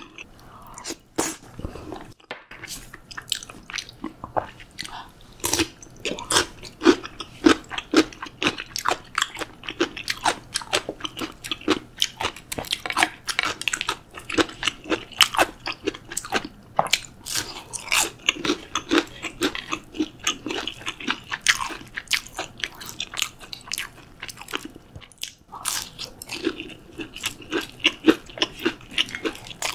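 Close-miked chewing and crunching of a person eating crispy breaded pork cutlet with curry. Crunchy bites and chewing strokes come in a steady run, often about two a second.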